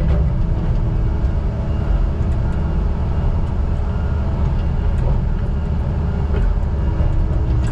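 Heavy diesel logging equipment engine running steadily with a deep rumble.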